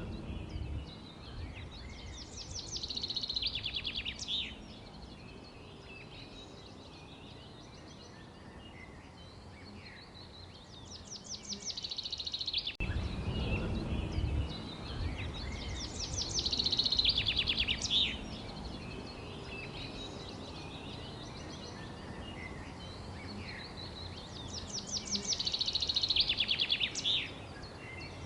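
Songbirds singing. One bird repeats a fast, high trilled song about every nine seconds, each song lasting a couple of seconds, among fainter scattered chirps over a steady low background noise.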